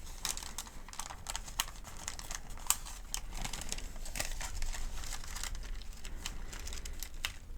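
Thin paper of a pharmacy medication guide crinkling as it is handled, with irregular sharp crackles throughout.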